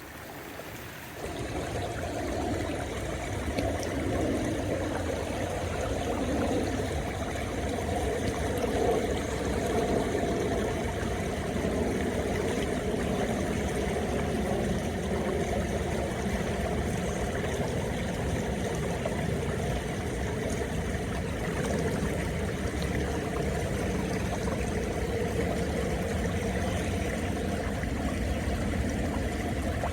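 River water flowing, a steady rushing sound that swells about a second in and then holds even.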